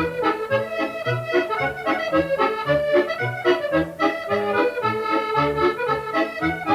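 Accordion playing a lively medley tune: melody and chords over a bass that alternates low notes about twice a second in a steady oom-pah rhythm.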